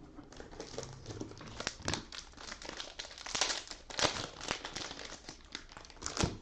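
Cellophane wrapper of a Panini Mosaic football cello pack crinkling and crackling as it is torn open. The crackling is busiest in the middle, with one sharp crackle near the end.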